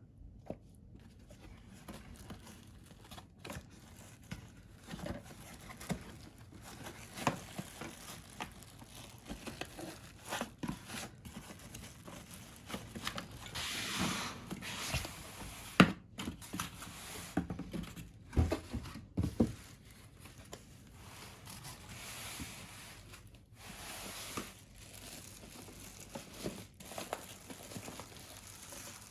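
Packaging being handled and torn open: irregular crinkling and tearing with scattered knocks and scrapes, and one sharp knock about 16 seconds in.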